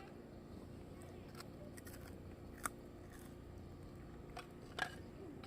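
Low steady background noise with a few sharp clicks, the loudest two about two and a half and five seconds in.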